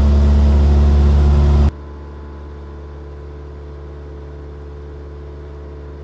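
Cessna 172's engine and propeller at takeoff power, heard as a loud, steady drone in the cabin. About two seconds in, the sound drops suddenly to a much quieter steady hum.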